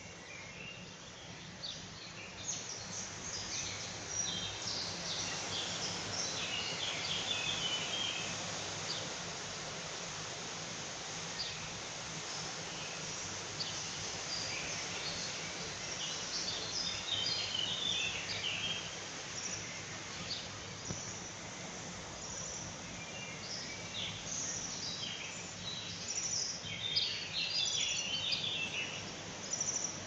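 Several wild birds singing and chirping in short scattered phrases, busiest in a few spells, over a steady background hiss of outdoor noise.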